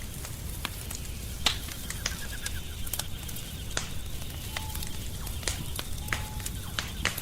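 Wood fire crackling: scattered sharp pops and snaps over a low steady rumble, the loudest pop about one and a half seconds in.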